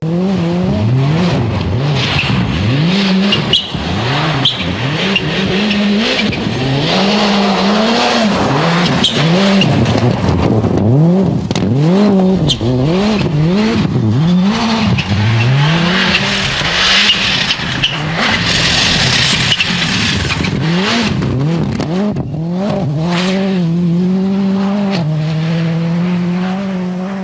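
Toyota Corolla WRC rally car's turbocharged 2.0-litre four-cylinder engine revving hard, its pitch climbing and dropping sharply again and again through gear changes and lifts. Near the end the engine holds a steadier note.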